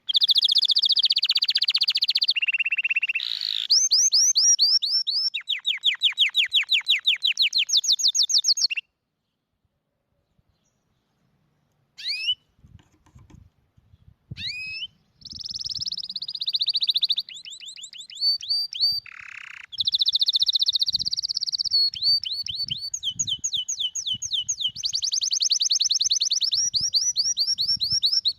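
Domestic canary singing in long, fast trills of rapidly repeated notes, some sliding up or down in pitch. The song breaks off for about three seconds, then resumes with more trills.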